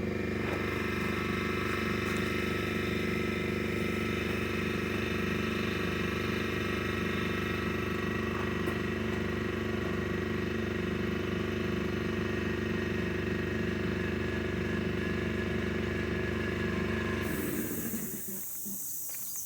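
An engine running steadily at an even idle, then shutting off near the end.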